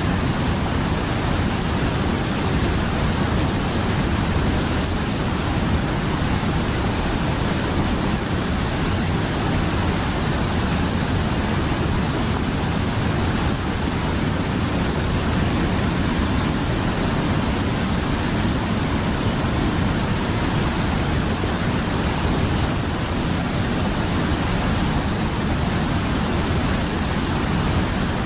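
A mountain river rushing steadily, a dense unbroken roar of flowing water.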